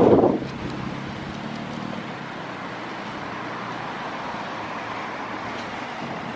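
Steady outdoor rushing of wind and road traffic, with a faint engine hum fading away over the first two seconds after a louder burst right at the start.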